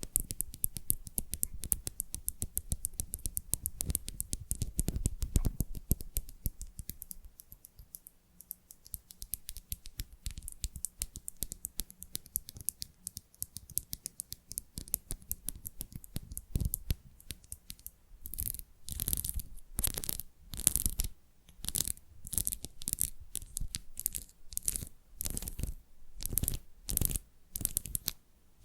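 Fingernails tapping and scratching on a tile: rapid, dense tapping at first, then a quieter stretch, and from about two-thirds of the way through, regular scratching strokes nearly two a second.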